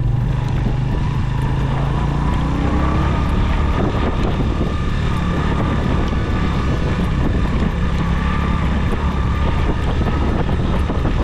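Small motorcycle engine running steadily under load while riding up a rough dirt track, with wind noise on the microphone.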